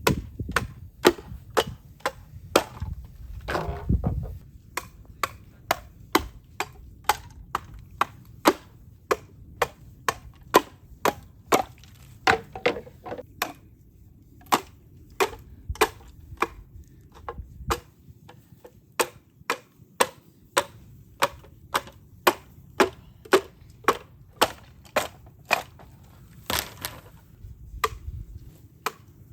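Bamboo being chopped and split, a run of sharp, even knocks at about one to two strikes a second, with a few longer cracking bursts between them.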